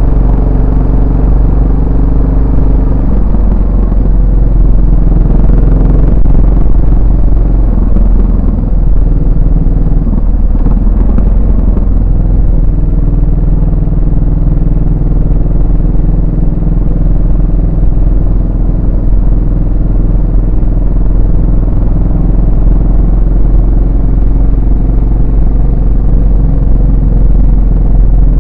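Yamaha SR400's single-cylinder four-stroke engine and exhaust while riding, the engine note shifting in pitch a few times as the revs change, over a steady low rumble.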